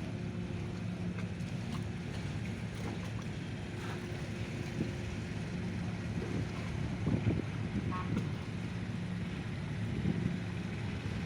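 A car ferry's diesel engines running with a steady low drone, with wind buffeting the microphone.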